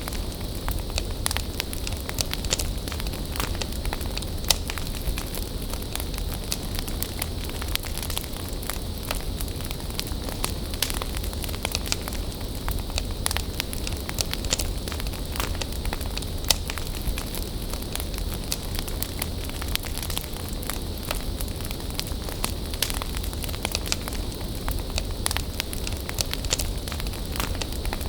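Bonfire of burning wood crackling steadily, with frequent sharp pops over a continuous hiss and a low rumble.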